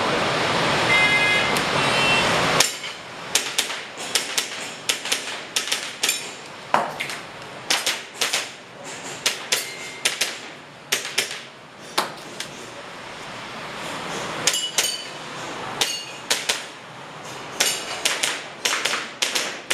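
Airsoft pistol firing a timed practical-shooting stage: dozens of sharp shots in quick, uneven strings, some with a brief metallic ring from hits on steel targets. A loud rushing noise fills the first couple of seconds before the shooting starts.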